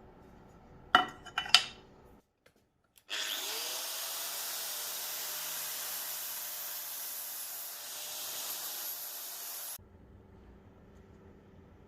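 Two sharp knocks about a second in, then a power tool spins up with a briefly rising whine and runs with a steady abrasive hiss, taking rust off the steel of an old butcher's cleaver, for about six seconds before cutting off suddenly.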